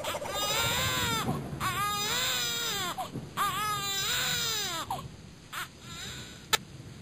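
Infant crying in three long wails, each rising and then falling in pitch, dying away about five seconds in; a single sharp click near the end.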